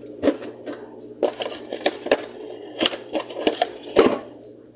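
Aluminium soda cans knocking and clinking against each other and the fridge shelves as they are set in, a series of sharp knocks, the loudest about four seconds in.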